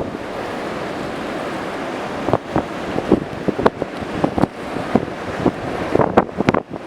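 Ocean surf with wind hitting the microphone. A steady rush of breaking waves fills the first two seconds or so, then irregular sharp wind gusts buffet the mic over the surf.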